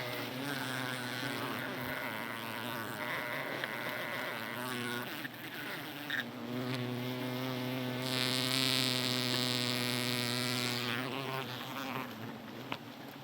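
Wild honey bees buzzing close by: a steady hum that swells louder for a few seconds past the middle and fades near the end.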